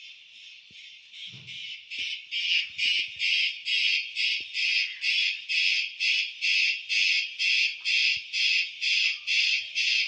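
Cricket chirping in a steady pulsing rhythm, about two and a half chirps a second, growing louder about two seconds in and then holding steady.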